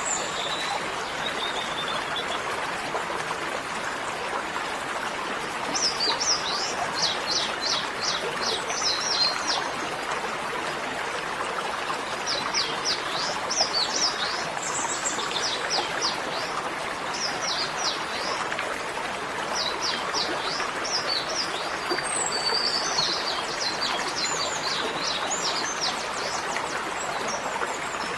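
Songbirds singing in quick series of sharp, downward-sweeping notes, in several bouts, over a steady rushing hiss like running water.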